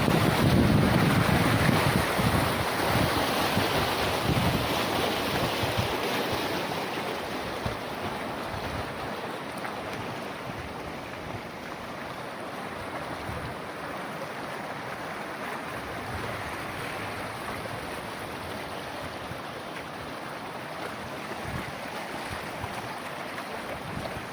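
Floodwater rushing steadily, heard as a continuous noisy roar. Wind buffets the microphone at first, then eases over the first several seconds.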